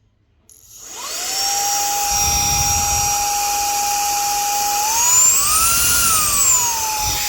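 REIKIYA HV-C11 mini handheld cordless vacuum cleaner switching on at power level 1: its small motor spins up about a second in to a steady high whine. Between about five and six and a half seconds the whine climbs higher in pitch and then settles back to its steady note.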